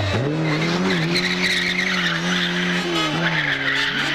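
Rally car engine revving up sharply and held at high revs, with a slight drop in pitch about three seconds in, over a hiss of tyre noise.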